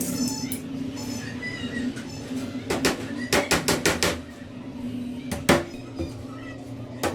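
Quick runs of sharp wooden taps and knocks, several a second, from sticks being hammered or knocked into place while the cage is built, over a steady low hum.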